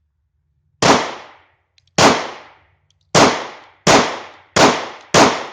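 German P.08 Luger 9mm pistol firing six shots, each with a short ringing tail. The first two are about a second apart, then the pace quickens to roughly one shot every two-thirds of a second.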